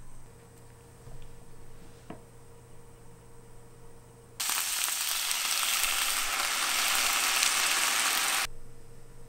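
Sliced pork and green onions sizzling loudly in a frying pan as sauce is poured in. The sizzle cuts in abruptly about four seconds in and stops just as suddenly about four seconds later.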